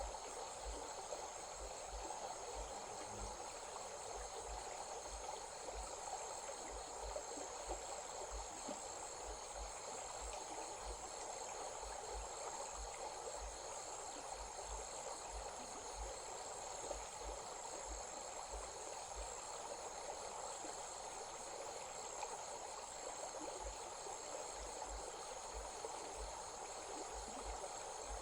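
Steady rush of a flowing stream, with insects chirring continuously in a high, finely pulsing drone over it.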